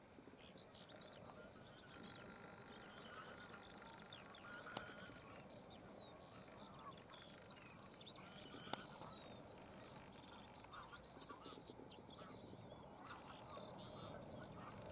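Faint chorus of many birds calling, with overlapping short calls throughout. There are two sharp clicks, about five and nine seconds in.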